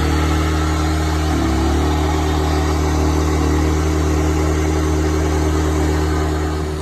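An engine idling steadily with a low, even hum. Its pitch wavers briefly about a second and a half in, and it gets a little quieter near the end.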